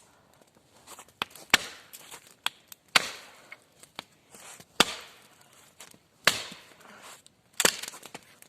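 Firewood being chopped: five sharp blows on wood, about one every second and a half.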